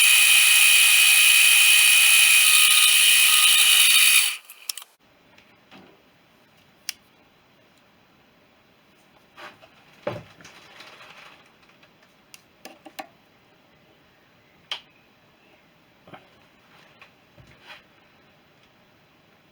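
Metal lathe running and cutting a steel bar, a steady loud sound that stops suddenly about four seconds in. The rest is quiet apart from a scattered series of light clicks and knocks.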